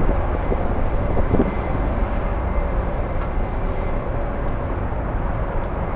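Jet airliner engines running steadily at a distance, a constant noise with a faint steady hum, over a low rumble of strong wind on the microphone.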